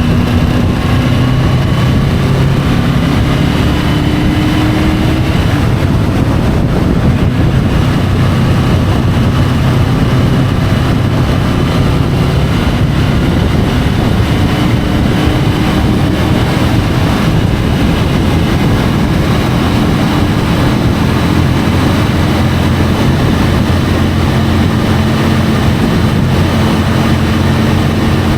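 Triumph Tiger 850 Sport's three-cylinder engine running under way, heard from the bike with heavy wind and road noise. The engine pitch climbs slowly, drops out about six seconds in, then climbs again later.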